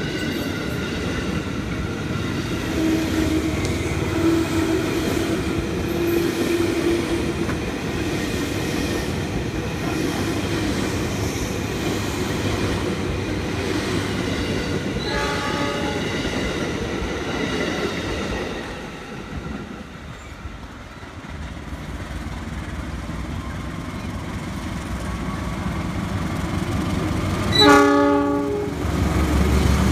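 A train running past on the tracks with a steady rumble of wheels on rails. A short horn blast sounds about halfway through, and a louder horn blast near the end.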